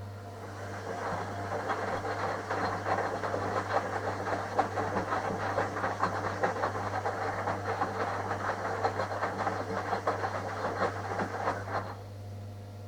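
Front-loading washing machine drum turning in its wash cycle, water sloshing and laundry tumbling with a steady low motor hum underneath; the tumbling stops abruptly about twelve seconds in, as the drum pauses before reversing.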